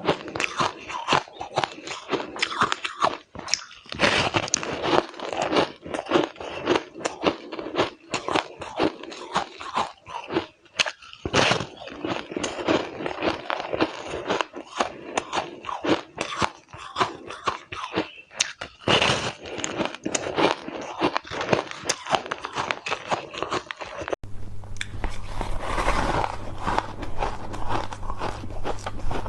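Close-up biting and chewing of frozen purple flavoured shaved ice, a dense run of sharp crunches. About 24 seconds in the sound changes abruptly: the crunching goes on softer and more even over a steady low hum.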